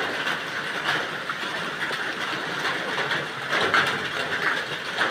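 Steady rain falling, with irregular taps.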